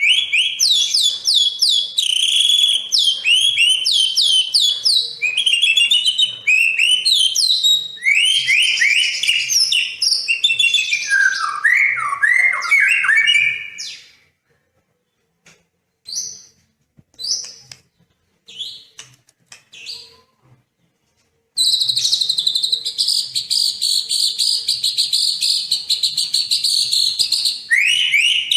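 Songbird singing a varied song of quick down-slurred whistles. After about fourteen seconds it drops to a few scattered notes, then from about twenty-one seconds in it breaks into a long, rapid trill.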